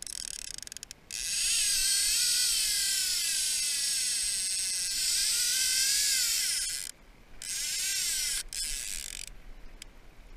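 Fishing reel drag buzzing as a hooked barracuda runs and pulls line off the spool. A few short bursts give way to a long continuous run about a second in; it breaks off near the seven-second mark, then comes back for under two seconds.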